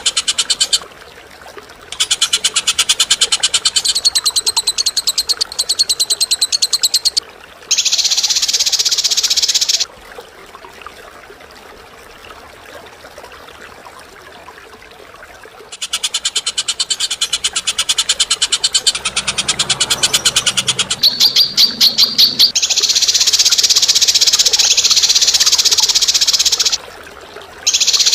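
Songbird calling in rapid, harsh, high-pitched trills in bouts of a few seconds each, the pulses packed densely, with a quieter pause in the middle: a masteran of harsh chattering 'kasaran' calls.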